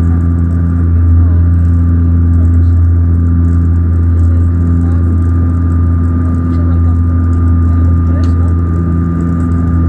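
Saab turboprop airliner's engines and propellers running at a steady cruise: a loud, even low drone with a thin, steady high whine over it.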